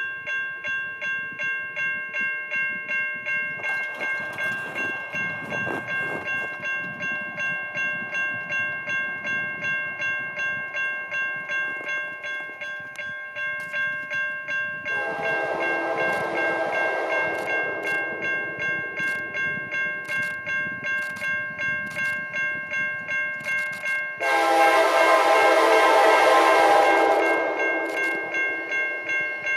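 Railroad grade-crossing bell ringing steadily about twice a second as an Alaska Railroad diesel train approaches, its running noise building. The locomotive's air horn sounds a long blast about halfway through and a louder long blast near the end.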